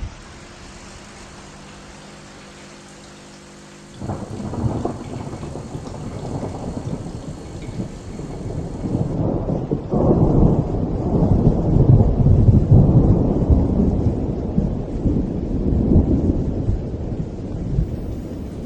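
Thunder over steady rain: a long, low rolling rumble breaks in suddenly about four seconds in, swells to its loudest midway, then slowly eases off, with the hiss of rain underneath.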